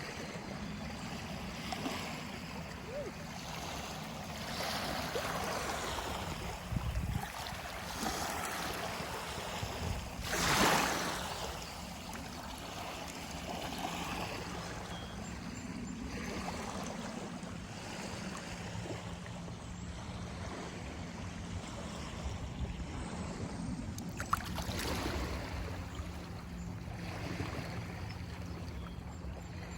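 River water flowing and lapping in gentle swells, with one louder rush of water about ten seconds in. A faint, steady low hum runs underneath.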